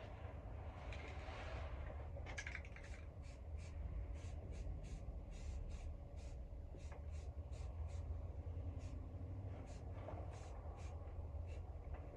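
Aerosol spray-paint can sprayed in many short bursts, a quick hiss every half second or so, over a steady low rumble.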